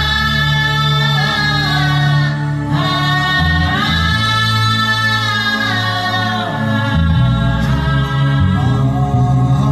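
A man's wordless devotional humming in long held notes that glide from one pitch to the next, over low steady sustained tones that shift every few seconds.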